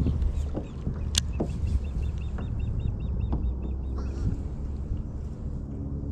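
A bird's clucking call, a quick run of short, evenly spaced notes, over a steady low rumble. There is a sharp click about a second in.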